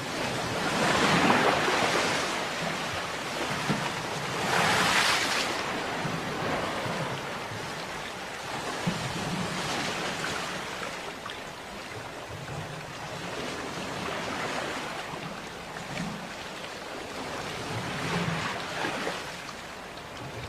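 Ocean waves breaking and washing on a shore, the surf swelling louder in surges about a second in, around five seconds in and again near the end, with a steady wash between.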